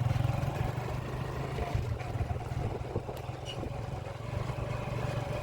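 Small motorcycle engine running steadily at low revs, a little quieter after the first second.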